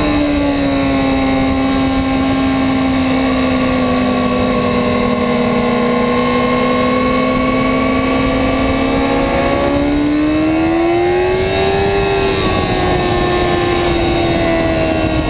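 2008 Yamaha R6's inline-four engine running hard under heavy wind rush. Its pitch drops at the start and holds steady for several seconds. It then climbs about ten seconds in and eases off again near the end.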